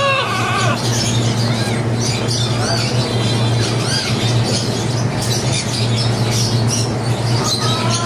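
Birds chirping and chattering in short, rapid calls, several a second, over a steady low hum.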